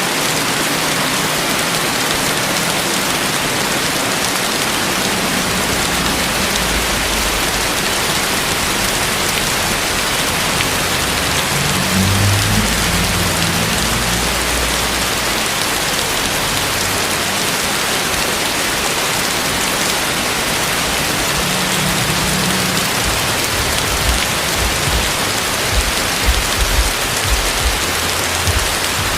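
Heavy rain falling steadily, a dense even hiss. Low rumbles come through in the middle, and several brief low bumps come near the end.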